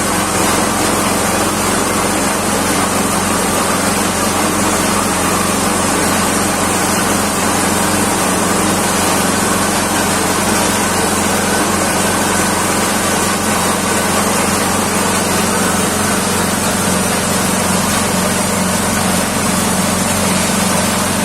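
Chicken-feed pellet crumbler machine running steadily and loudly, a continuous mechanical din over a steady low hum.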